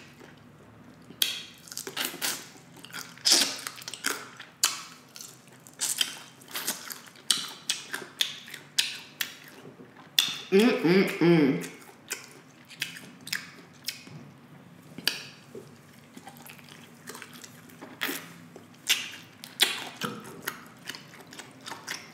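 Close-miked crunching and chewing of crispy fried chicken wings: an irregular run of sharp crunches and clicks. A short sound of the eater's voice comes about eleven seconds in.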